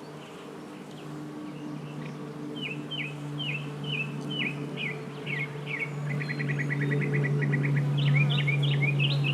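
Honey bees humming steadily around an open hive, the hum growing louder toward the end. Over it a songbird sings a series of down-slurred whistled notes, about two a second, then a rapid trill, then a quick jumble of notes.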